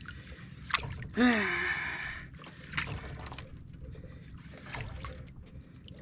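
A man's short, breathy grunt that falls in pitch about a second in, over a steady hiss of wind and water, with a couple of sharp clicks.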